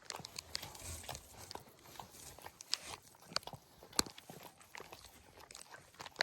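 Mother Boston terrier licking and mouthing her newborn puppies as she cleans them, an irregular run of small wet clicks and smacks.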